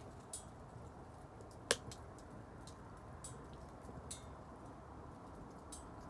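Wood bonfire crackling: scattered sharp pops and clicks over a low steady hiss, with one louder pop about two seconds in.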